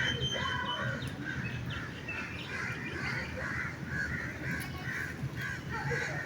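Birds calling outdoors: a run of short calls repeating two or three times a second.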